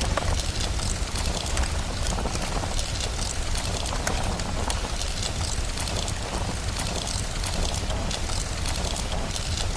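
Steady rain with a constant deep low rumble, mixed with many small pops and crackles of a wood fire burning.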